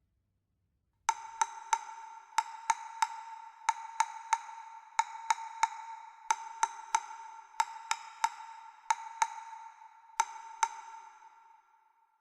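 Sharp wood-block-like percussion taps in groups of three, about three a second, over a steady ringing tone; they start about a second in and fade near the end.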